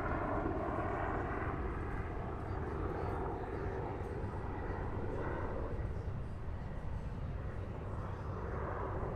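An aircraft passing by, its engine tone dropping slightly in pitch and fading away over the first couple of seconds, over a steady low rumble of harbour ambience.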